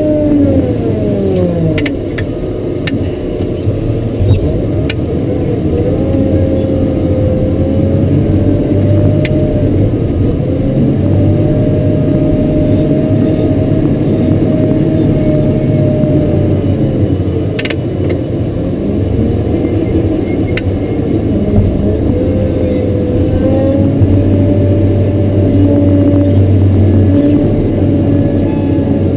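Caterpillar 140K motor grader's diesel engine running under working load, heard from inside the cab. Its revs drop sharply in the first two seconds, then climb and sag repeatedly as the throttle is worked, with a few sharp clicks.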